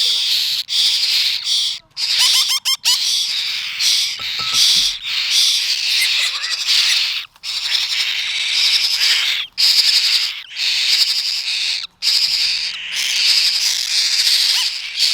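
Hungry baby birds begging: continuous raspy, hissing begging calls in long stretches broken by short pauses, with a few brief squeaks about two seconds in.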